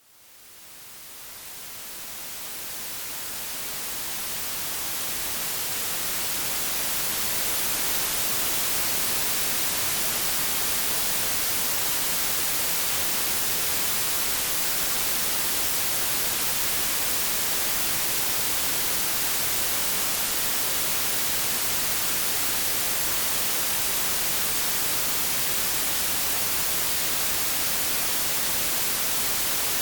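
White noise: a steady, even hiss across the whole range, fading in from silence over the first several seconds and then holding level.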